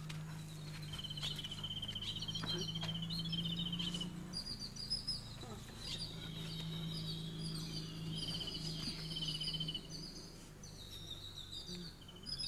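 Small birds chirping in quick repeated trills, coming and going, over a steady low hum.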